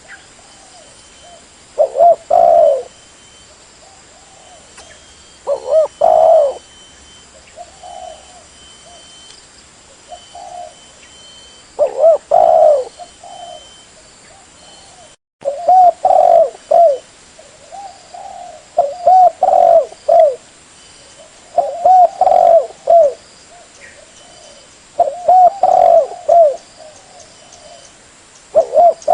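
Spotted dove cooing: short, loud phrases of low coos repeated every two to four seconds, with a brief dropout about halfway through. This is a lure call for attracting wild spotted doves.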